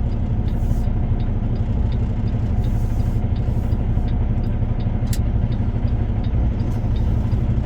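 Semi truck's diesel engine idling steadily, with a faint regular light ticking over it and one sharp click about five seconds in.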